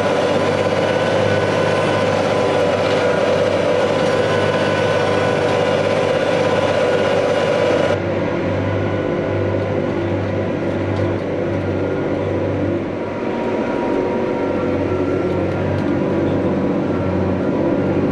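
Heavy farm machinery engine running steadily, a dense continuous drone. About halfway through, the sound changes abruptly to a slightly quieter, duller drone, as at a cut to another machine or position.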